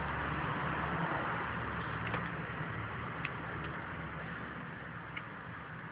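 Steady running noise of a 2001 Ford SVT Lightning pickup, slowly fading, with a few faint light clicks.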